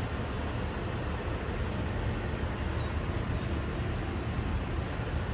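Steady low rumble with an even hiss above it, unbroken and without distinct knocks or tones.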